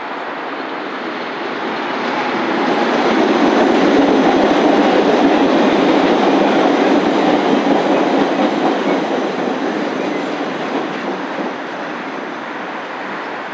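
Train running on rails: a rumble and clatter that grows louder about two seconds in, holds for several seconds, then fades.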